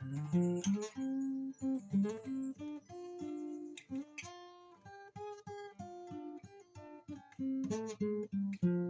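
Guitar in open D tuning playing a freestyle blues riff: a run of picked single notes mixed with short strums.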